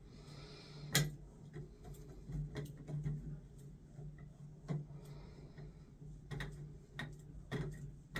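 Scattered light clicks and taps of metal parts as a cartridge puller is threaded onto a Mixet valve cartridge, the sharpest click about a second in, over a faint steady low hum.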